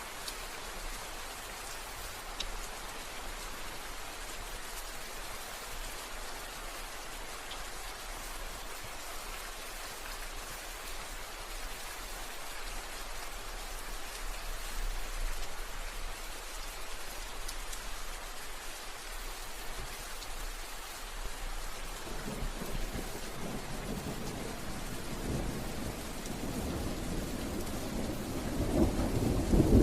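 Steady rain falling. About two-thirds of the way in, a low rumble of thunder starts to build, and it grows loudest near the end.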